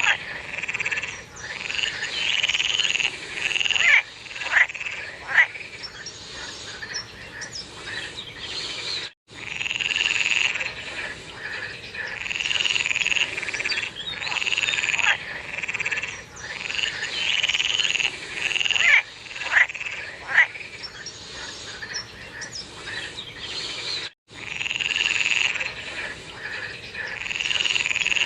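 A chorus of frogs croaking over and over in overlapping calls. The sound cuts out completely for an instant twice.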